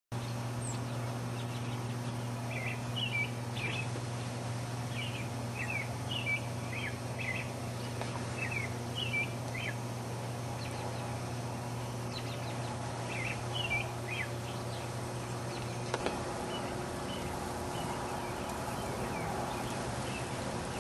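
A songbird chirping in short runs of quick notes over a steady low hum. About sixteen seconds in the hum stops abruptly and a steady hiss remains.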